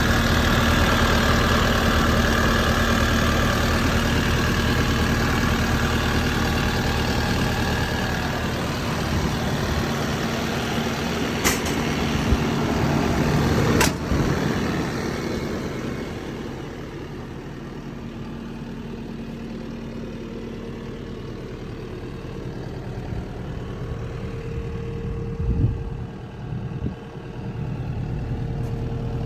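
Kubota SVL95 skid steer's four-cylinder V3800 diesel engine running steadily, then settling lower and quieter from about halfway through. Two sharp clicks come before the drop, and a thump near the end.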